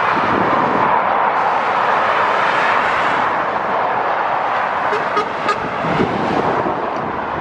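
Steady roar of road traffic noise from motorway vehicles.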